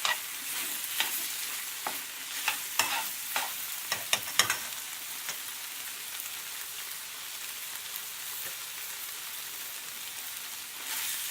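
Chicken pieces frying in a pan with a steady sizzle, while a utensil scrapes and knocks against the pan several times in the first four or so seconds; after that only the sizzling goes on.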